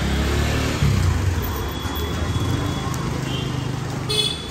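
Street traffic: a motor vehicle's engine running close by over a steady hiss, with a short high-pitched beep near the end.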